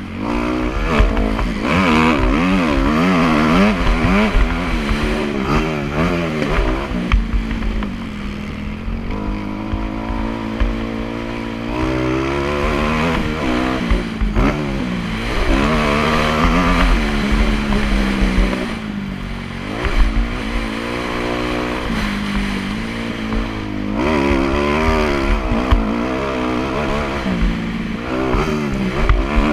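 Motocross bike engine revving hard and rising and falling in pitch again and again as the rider works the throttle and gears, easing off briefly about eight seconds in and again near twenty seconds.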